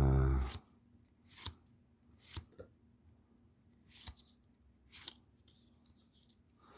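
Trading cards being handled and flipped through one at a time: about five short, sharp clicks of card against card, spread a second or so apart.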